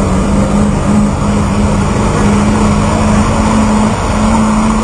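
Pulling truck's engine running loud and hard, holding a steady pitch over a rough, noisy exhaust.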